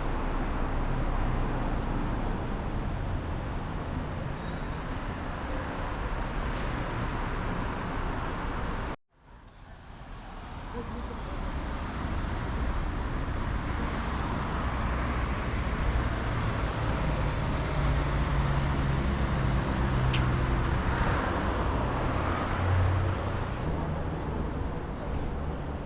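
City street traffic noise: the steady rumble and hiss of passing cars and buses. About nine seconds in it cuts out abruptly and fades back in.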